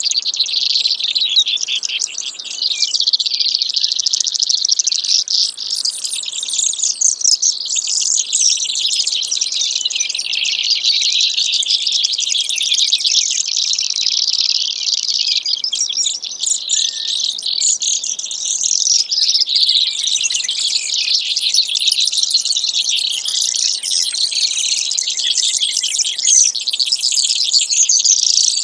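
Brewer's sparrow song: a high-pitched, rapid, unbroken run of trills and buzzy notes.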